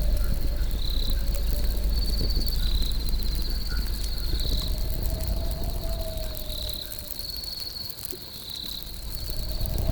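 Crickets chirping steadily over a low rumble, with faint crackles from a campfire. A wavering lower tone fades out midway and returns near the end.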